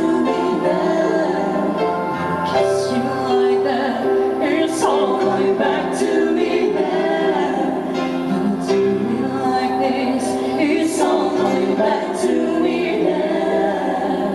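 A band playing, with a singer holding long sung notes over sustained chords and occasional bright high crashes.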